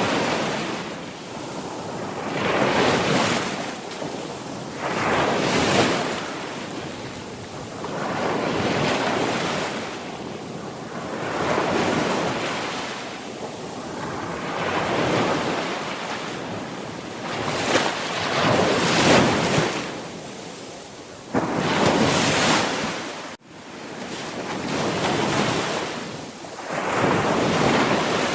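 Sea waves breaking and washing on the shore, the surf swelling and fading in a steady run every two to three seconds. The sound drops out briefly and suddenly about two-thirds of the way through.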